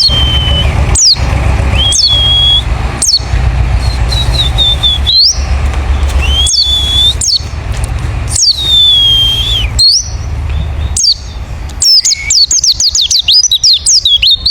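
White-eye (pleci) calling: loud whistled notes that swoop down and then hold a steady pitch, one every second or two, over a low steady hum. Near the end they break into a fast twittering run of short notes.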